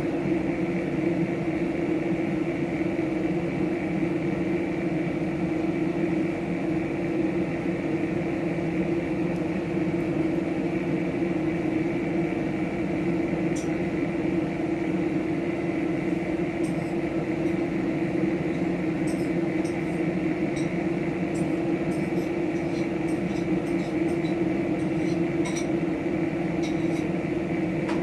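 Steady machine hum made of several fixed tones, like a running fan or appliance motor, with faint light clicks and taps in the second half.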